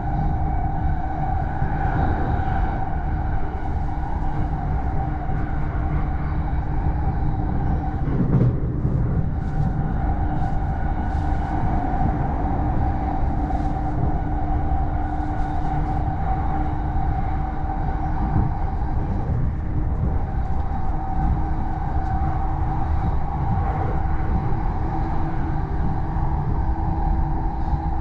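Running noise of an E231-series electric commuter train at speed, heard inside the upper deck of a bilevel Green car: a steady rumble with a steady whine over it, and one brief louder knock about eight seconds in.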